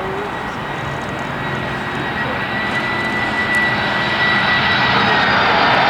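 Cargo aircraft's engines running with a steady roar and a high whine, growing steadily louder as the plane comes closer.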